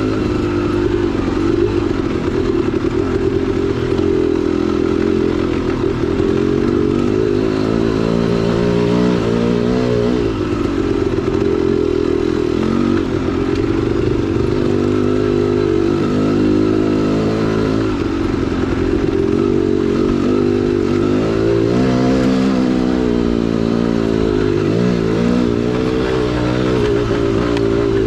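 2010 KTM 300 XC-W's 300cc two-stroke single-cylinder engine running under way, the revs rising and falling with the throttle.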